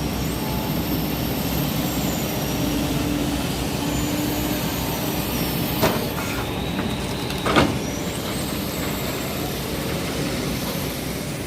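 Excavator engine running steadily under work, with two sharp metallic clanks about six and seven and a half seconds in.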